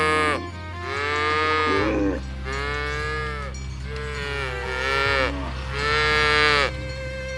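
Cows mooing: about five long calls one after another, each rising and then falling in pitch.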